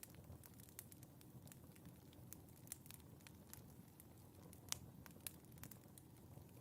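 Wood fire in a fireplace crackling faintly, with irregular small pops over a soft low rumble and one louder pop about two-thirds of the way through.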